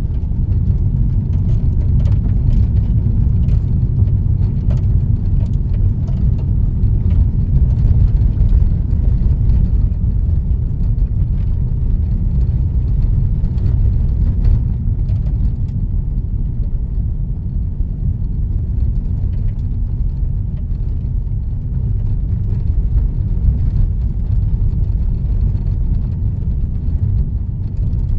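Car driving on a country road, heard from inside the cabin: a steady low rumble of tyres and engine with no marked changes.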